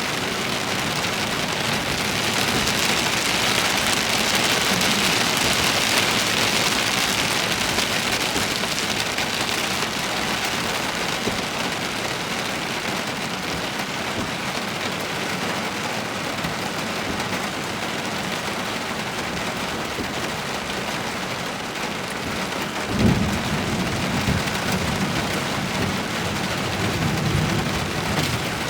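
Heavy thunderstorm rain pouring steadily, heaviest in the first several seconds. About 23 seconds in a sharp clap of thunder cracks and rumbles on for a few seconds.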